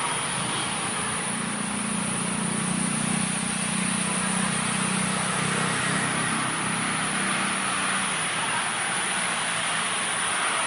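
A distant engine hum that swells and fades in the middle, over a steady hiss and a constant high-pitched whine.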